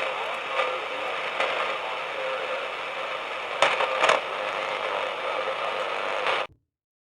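Shortwave ham-radio receiver on the 80-metre band giving a steady band-limited hiss of band noise, broken by a few sharp clicks. It cuts off abruptly about six and a half seconds in.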